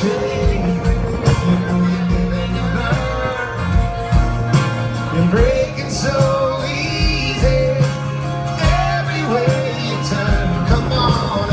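Live band playing a rock song, with drums, bass and guitars under a sung melody.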